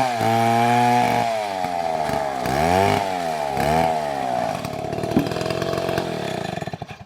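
STIHL MS720 chainsaw running at full throttle. Its engine pitch dips and recovers several times as it bogs under load in the cut. The revs then sag and the sound dies away sharply near the end.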